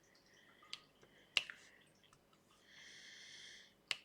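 Sparse sharp clicks of a diamond painting pen picking up and pressing resin drills onto the canvas, three in all, the loudest a little over a second in. A soft hiss about three seconds in.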